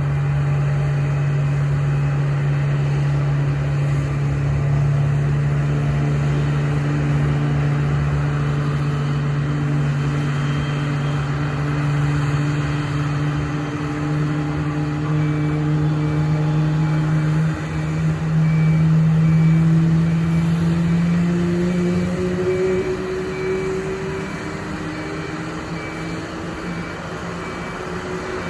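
Airbus A320neo's CFM LEAP-1A turbofan engines running, a loud low hum with several tones that rise slowly in pitch. About three quarters of the way through the lowest hum drops away while the higher tones keep climbing.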